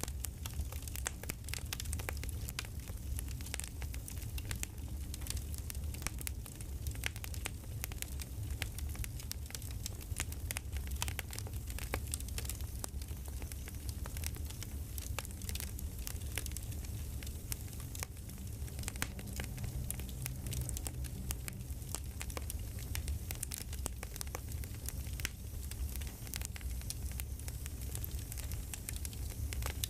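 Crackling campfire ambience: dense, irregular pops and snaps over a steady low rumble.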